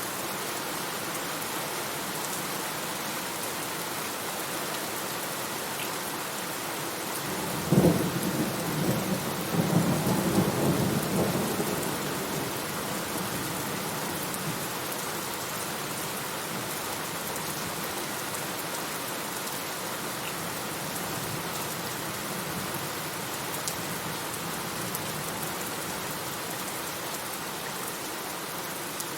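Steady rain with a thunderclap about eight seconds in. The thunder rumbles low for several seconds, then fades back under the rain.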